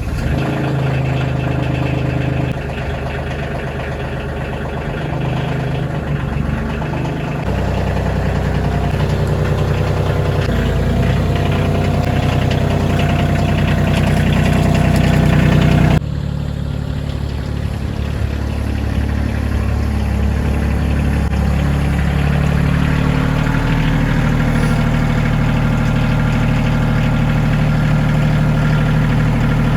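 Compact diesel tractor engine running steadily, with an abrupt change in the sound about halfway through. The source is the KIOTI CK2620's three-cylinder diesel.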